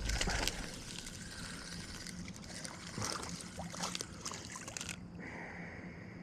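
Water splashing and dripping as a hooked bass is brought in from the weeds, loudest in a burst of splashing right at the start, then scattered smaller splashes and drips.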